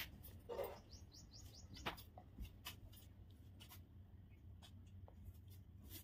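Faint bird chirping: a quick run of short, high, falling chirps about a second in, then a few scattered chirps, with faint clicks.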